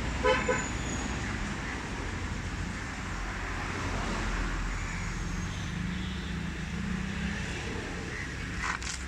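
Steady motor-vehicle noise with a short horn-like toot about a third of a second in.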